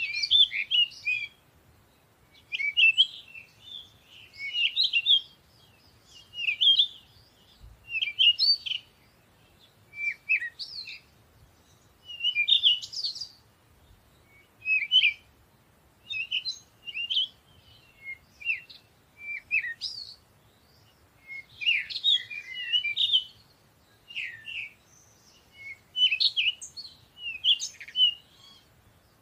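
Birdsong: short, varied chirping phrases high in pitch, one every second or two, with brief pauses between them.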